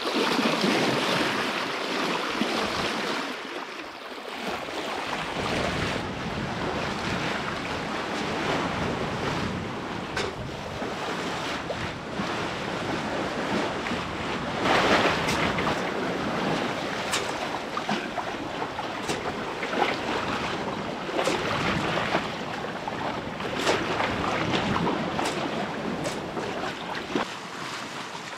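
Sea water rushing and splashing past a sailboat under way, in surges, with wind buffeting the microphone. A few short sharp ticks sound in the second half.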